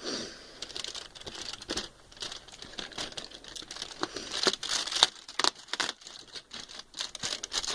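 Irregular light clicks, taps and crinkly rustling close to the microphone.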